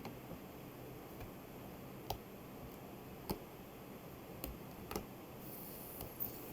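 Four faint, sharp clicks or taps, irregularly spaced over low room noise.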